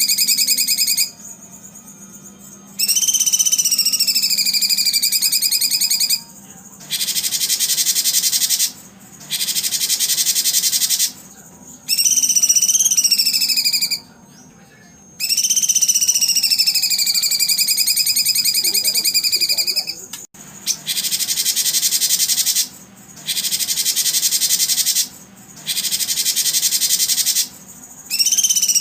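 Songbird singing in long phrases: drawn-out, wavering whistled notes alternate with fast, buzzy trills, each phrase broken off by a short pause.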